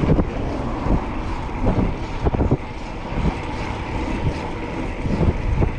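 Wind rumbling over the microphone of a moving bicycle, mixed with passing city traffic, with a few short knocks.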